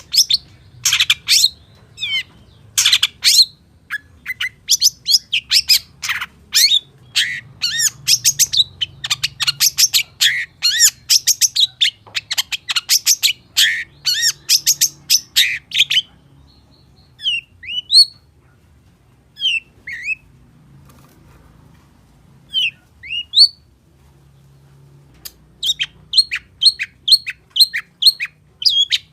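A long-tailed shrike singing its varied, mimicry-filled song: fast runs of loud chattering notes for about half the time, breaking into a few separate rising and falling whistled notes, then another quick run near the end.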